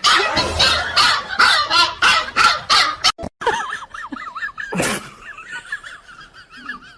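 Loud animal calls repeated about three times a second, stopping abruptly about three seconds in. A quieter, rapidly wavering high-pitched call follows, broken once by a sharp loud sound.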